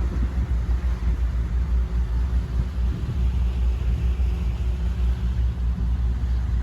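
Low rumble of a vehicle in motion, steady and fluctuating.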